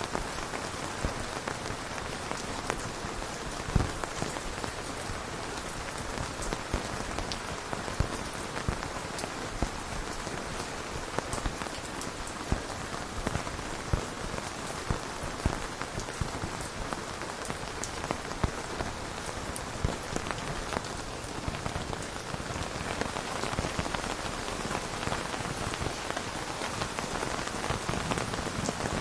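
Steady rain falling on a surface, with close, separate drops landing as sharp ticks every second or so over the even hiss.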